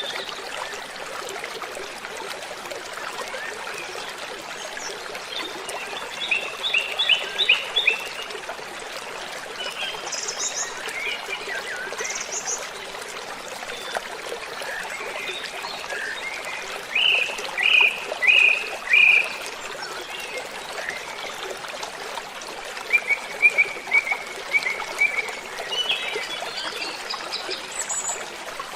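Waterfall rushing steadily, with birds calling over it in short runs of quick repeated chirping notes, the loudest runs a few seconds in, in the middle and near the end.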